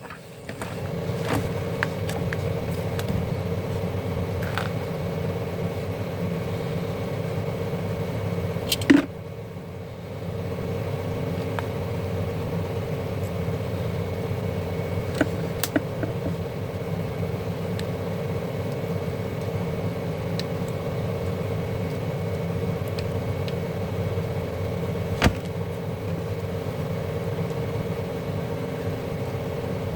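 A steady mechanical hum with a sharp click about nine seconds in, where it drops off for about a second before resuming, and a few light ticks later.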